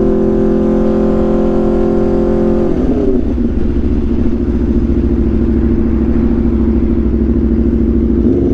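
Aprilia RSV4's V4 engine through an SC-Project CRT exhaust, holding steady revs, then the revs fall about three seconds in and the engine runs on at lower, steady revs.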